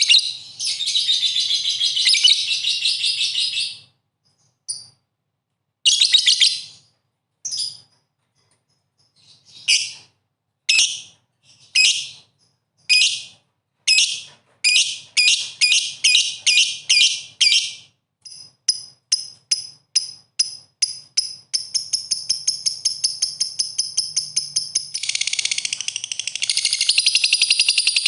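Lovebird in full song, chattering in high shrill chirps: a long burst of chatter at first, then separate chirps that come faster and faster, running into a rapid trill and dense continuous chatter near the end.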